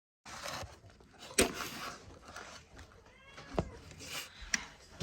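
A cat meows briefly about three seconds in, among a few sharp knocks and clatter.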